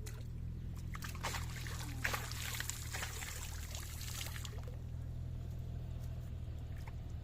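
Water splashing and pouring for about three and a half seconds, starting about a second in, over a steady low hum.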